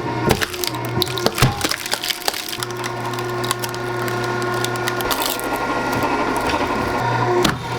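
Wood-fired chicken rotisserie: irregular cracks and clicks of burning firewood over a steady low machine hum.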